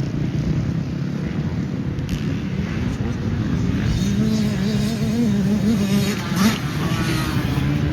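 Motocross dirt bike engine running, its pitch rising and falling with the throttle, with a quick rev-up about six and a half seconds in.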